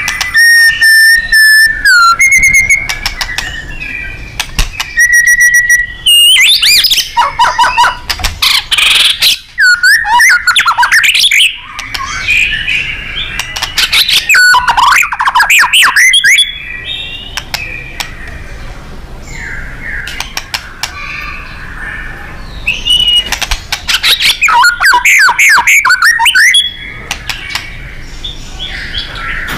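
White-rumped shama (murai batu) singing loudly. It opens with clear held whistles, then breaks into bursts of rapid sweeping notes, with quieter chattering between the bursts.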